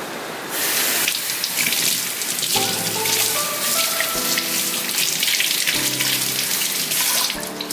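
Kitchen tap running, starting about half a second in, with water splashing over a leaf as it is rubbed clean by hand in a stainless steel sink.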